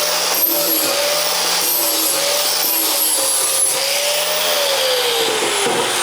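Angle grinder with a 120-grit flap disc sanding the steel rack, its motor tone dipping and recovering as the disc is pressed on, over a gritty rasp. Near the end the pitch falls away as the grinder winds down.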